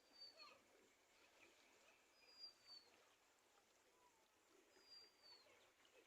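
Faint bird calls: a short high whistle falling in pitch, given three times about two and a half seconds apart, over faint background hiss.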